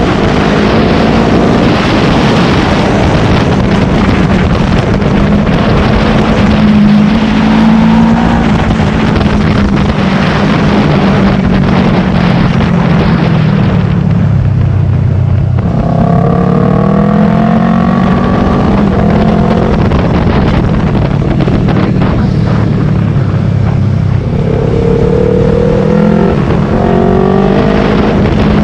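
Yamaha R3's parallel-twin engine heard from onboard, its note rising and falling over and over as the rider works the throttle and gears. It dips low about halfway through before climbing again, with wind rushing over the microphone.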